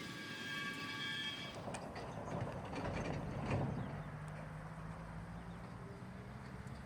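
Freight train running past on the line: rumbling wheel and rail noise builds about two seconds in, is loudest around three and a half seconds, then settles into a steady low hum. A short high ringing tone with several pitches at once is heard over the first second and a half.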